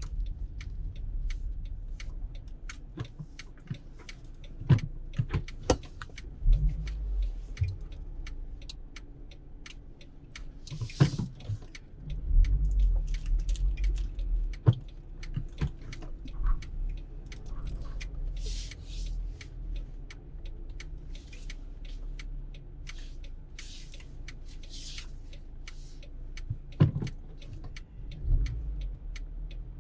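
Inside a car cabin: a low rumble with many scattered small clicks, knocks and rattles, and a few brief hissing swells, like air or passing traffic.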